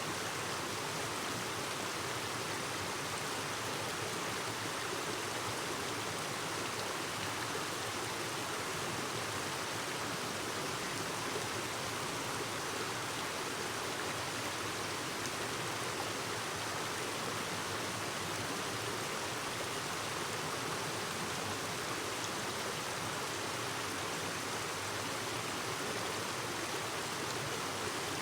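Clear mountain stream babbling over rocks, a steady, even rush of water.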